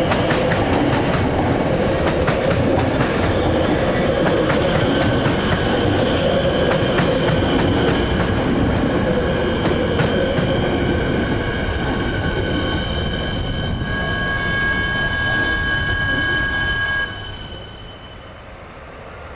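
Electric suburban train running on the rails, with wheels clicking over rail joints. High, steady wheel squeal grows stronger in the second half. The noise drops off sharply near the end.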